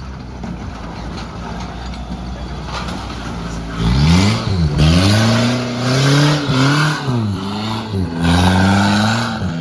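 Off-road 4x4's engine running low, then from about four seconds in revved hard again and again, its pitch rising and falling with each burst of throttle.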